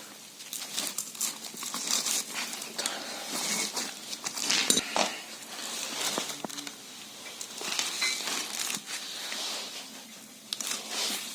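Rustling and crinkling handling noise with scattered small clicks and knocks, uneven throughout.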